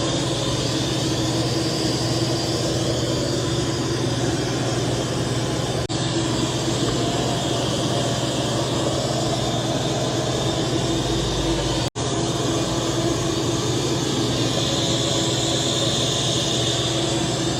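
Robot vacuum-mop running with a steady whirring hum from its suction fan and brushes. The sound drops out briefly twice, at about 6 and 12 seconds in.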